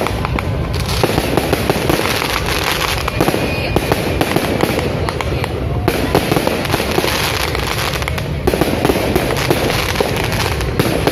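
Fireworks display: aerial shells bursting, with a dense, continuous crackle of many sharp pops and no pauses.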